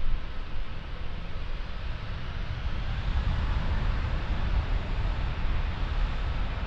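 Jet noise from an Emirates Airbus A380-861's four Engine Alliance GP7200 turbofans: a deep, noisy rumble with a hiss above it that grows louder about three seconds in.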